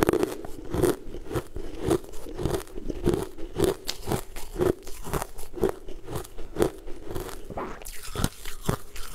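A person chewing a mouthful of crunchy, crumbly sweet food, with steady crunches about twice a second.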